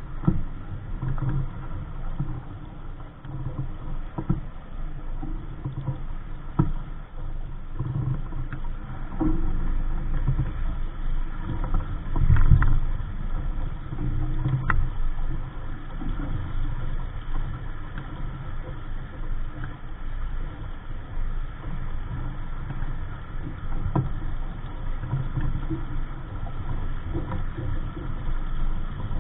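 Wind and water noise aboard a small sailboat under sail: a steady, uneven low rush of wind and water moving past the hull, with a few sharp knocks now and then.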